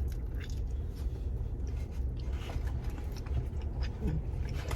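Someone chewing and biting a hard, overcooked pizza-crust melt, faint crunching clicks scattered over a steady low hum. A short low murmur about four seconds in.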